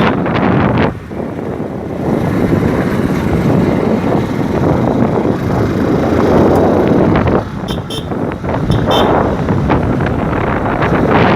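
Wind buffeting the microphone with the rush of road and vehicle noise during a ride at about 65 km/h. Two pairs of short high beeps come about eight and nine seconds in.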